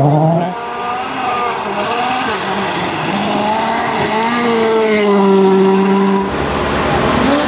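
Rally car engine under hard throttle, its pitch rising and dropping sharply with gear changes, then holding a steady high note for a few seconds.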